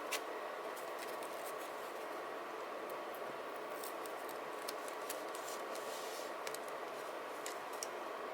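Hands working with journaling supplies on a desk: scattered light clicks and taps of paper, stickers and tools over a steady hiss.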